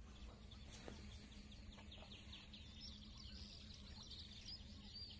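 Faint birds chirping over quiet background noise with a low steady hum.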